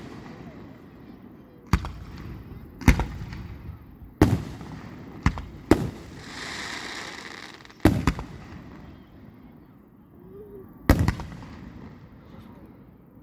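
Aerial fireworks shells bursting overhead: seven sharp booms spaced one to three seconds apart, each trailing off in an echo, with a brief crackling hiss near the middle.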